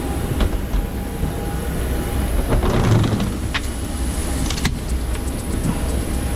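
Steady low rumble of an airliner, with a faint high whine and a few sharp clicks around the middle.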